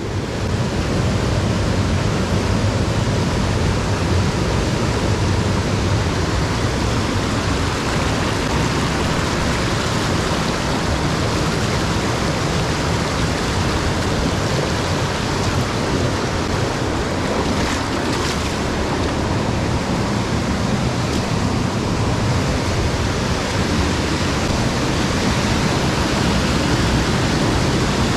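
Rushing water of a mountain headwater stream, a steady, loud rush.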